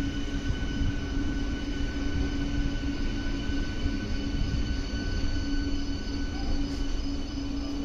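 MMTS electric multiple unit train running along a station platform, heard from its open doorway: a low rumble of wheels on track with a steady electric hum and a few faint high whining tones.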